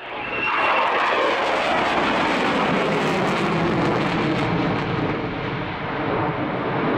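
Aircraft engine noise from a military display aircraft flying past, a loud steady noise that cuts in abruptly and eases slightly for a moment about five seconds in.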